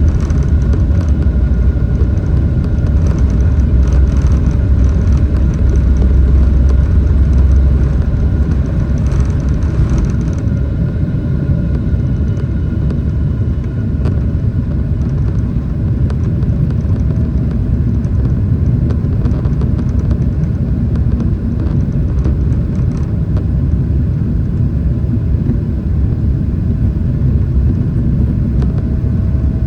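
Boeing 777-300ER airliner with GE90 turbofans running: a loud, steady low rumble with faint whining tones above it, heavier for the first ten seconds or so and then easing a little.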